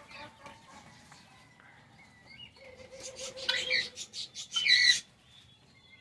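Small birds chirping in a few quick runs of sharp, high chirps, loudest between about three and five seconds in, with a lower drawn-out call just before them.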